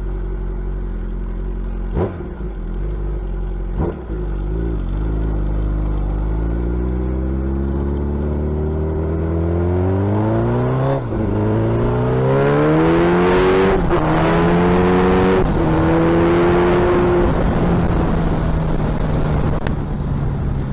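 Suzuki Hayabusa's inline-four accelerating hard through the gears, its pitch climbing and dropping back at three quick upshifts, then holding steady at speed. Two sharp clicks come a couple of seconds apart before it pulls.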